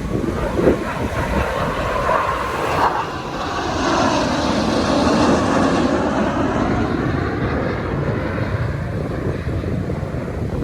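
An aircraft flying past, its engine noise swelling to a peak about four to six seconds in and then easing off.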